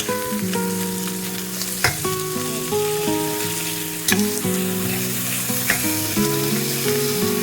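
Food sizzling as it fries in a pan, with a few sharp clicks of a utensil striking the pan while stirring. Soft background music plays underneath.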